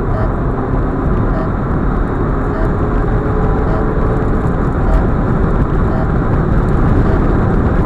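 Steady road and wind noise of an Audi A4 45 TFSI quattro cruising on a highway.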